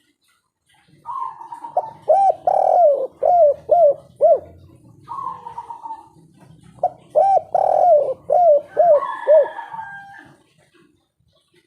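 Spotted dove (tekukur) cooing its three-note 'kuk 3' song twice: each phrase opens with a held note, followed by a run of quick arched coos. A faint higher call from another bird comes near the end.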